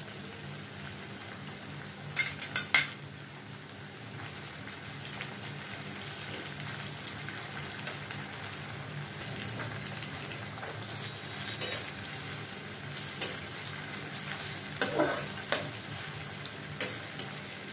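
Onion and tomato frying in hot oil in a kadai, a steady sizzle. A stirring utensil knocks and scrapes against the pan, in a cluster about two seconds in and again several times near the end.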